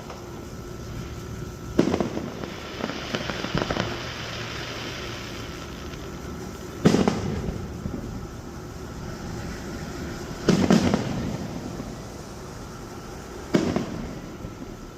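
Aerial fireworks bursting: four loud booms, about two, seven, ten and a half and thirteen and a half seconds in, with a stretch of crackling after the first.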